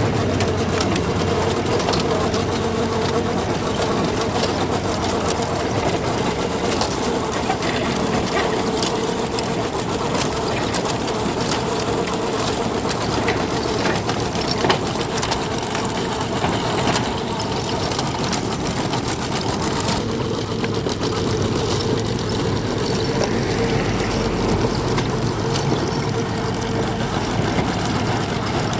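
Engine of heavy road-works machinery running steadily, with scattered short clicks and knocks over the engine noise.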